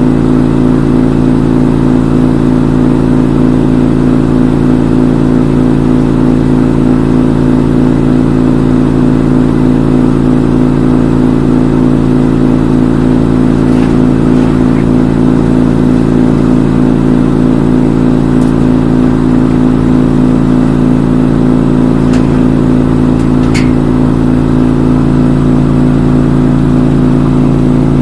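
Front-load washing machine in its spin cycle: the drum and motor spin at a steady high speed with a loud, even hum, with a few faint clicks in the second half.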